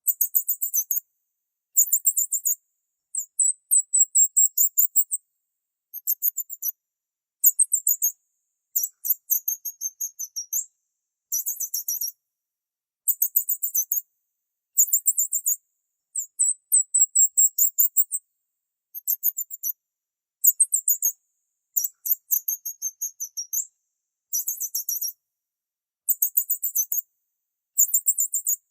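Small bird chirping in short phrases of rapid, very high-pitched notes, each phrase about a second long, separated by brief silences.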